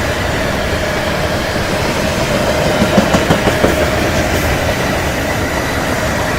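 Iron-ore freight train cars rolling past: a steady rumble of steel wheels on rail with a thin steady tone above it, and a quick series of wheel clacks about three seconds in.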